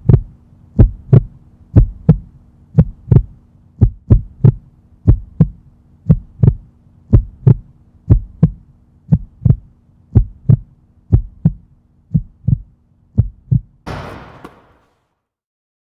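Heartbeat sound effect on a film soundtrack: a steady double thump, lub-dub, about once a second over a low hum. About fourteen seconds in it ends with a short hissing whoosh that fades out within a second.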